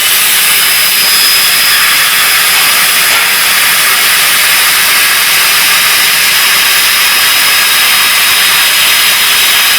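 CNC plasma torch cutting steel plate: a loud, steady hiss from the plasma arc and its jet of cutting gas.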